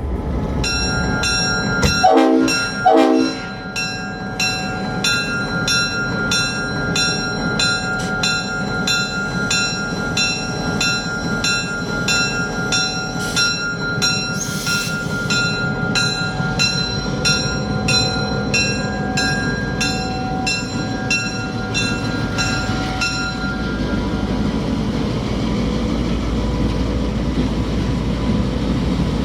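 Two short blasts on a GP38-3 diesel locomotive's Leslie RS5T air horn, the loudest sounds here, over a bell clanging in an even rhythm that stops about 23 seconds in. A diesel locomotive's steady low rumble continues underneath.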